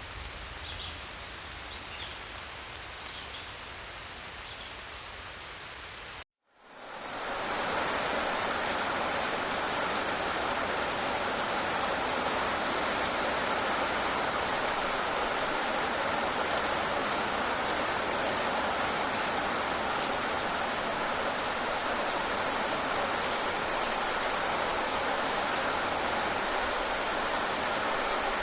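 Steady rain falling, an even hiss with faint drop ticks. About six seconds in, a quieter outdoor ambience cuts off to a moment of silence, then the rain fades in louder and holds steady.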